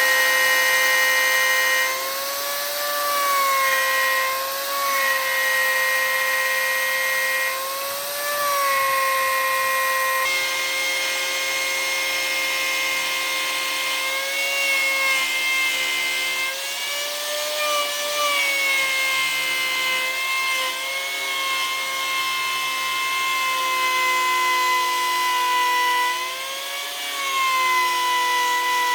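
Electric power tool motor running with a steady whine over the hiss of cutting, its pitch wavering and bending briefly several times.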